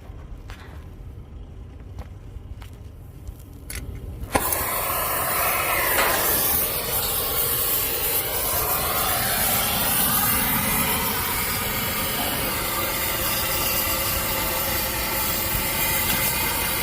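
A few faint clicks, then about four seconds in an oxy-acetylene brazing torch with a small tip comes on with a sudden, loud, steady hiss that keeps going while the copper liquid line is brazed to the condenser's service valve.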